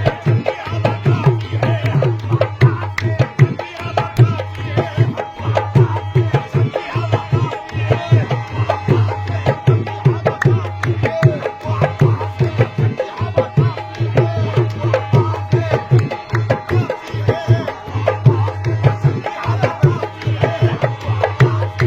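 Qawwali music: rapid, continuous hand-drum playing with a melodic line running over it.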